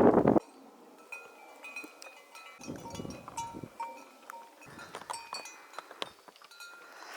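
Bells on grazing livestock clinking irregularly, many short ringing notes at different pitches. A loud rush of wind on the microphone opens the clip and cuts off abruptly about half a second in.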